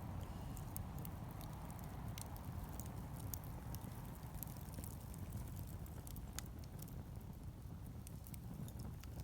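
Wood fire crackling: scattered sharp pops and snaps at irregular moments over a low steady rumble.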